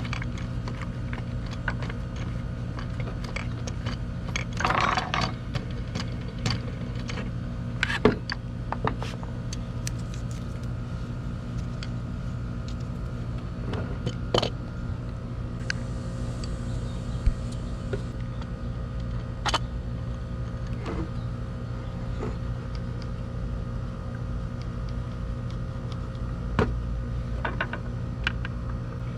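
Scattered clicks, clinks and a short scrape of hand tools and small trimmer-head parts being handled, over a steady low hum.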